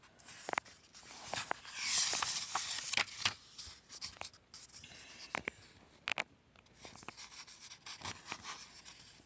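Paper rustling and light taps as a picture book's pages are handled and turned, with a short swell of rustle about two seconds in.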